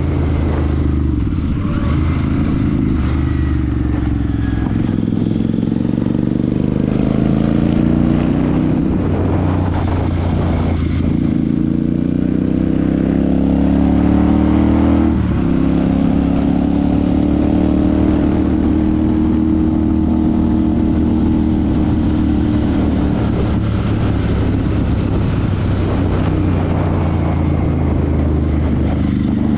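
Royal Enfield Super Meteor 650's parallel-twin engine and exhaust under way, the engine note rising as it accelerates and dropping back at gear changes, about a third of the way in and again about halfway, then holding fairly steady.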